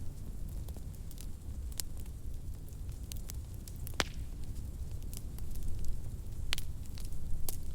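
Wood fire burning in a fireplace: scattered sharp crackles and pops, a few louder ones among many small ticks, over a steady low rumble of the flames.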